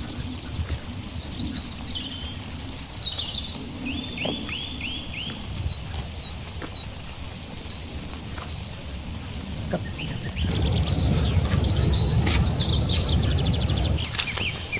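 Small songbirds chirping and calling, with short whistled and down-slurred notes, over a steady low rumble of outdoor background noise that grows louder for a few seconds near the end.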